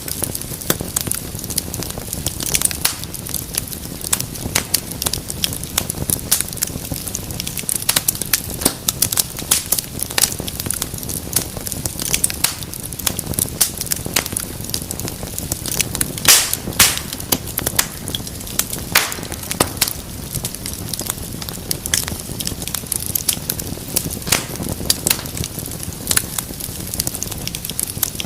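Wood fire burning in a fireplace, crackling steadily with dense irregular snaps over a low rumble of flames, and a few louder pops about two-thirds of the way through.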